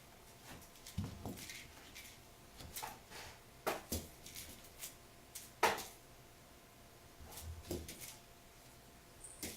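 A kitten at play: irregular light thumps, taps and scuffs on the floor, with the loudest knock about halfway through.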